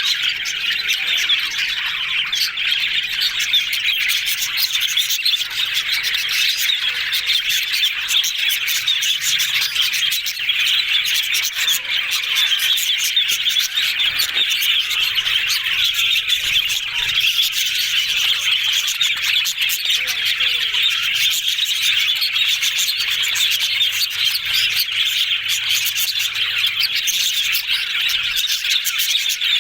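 Budgerigars chattering and warbling without a break: a dense, steady stream of fast chirps and squawks.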